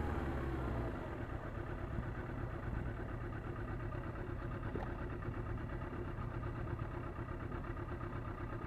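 Motorcycle engine idling steadily after the revs drop away about a second in.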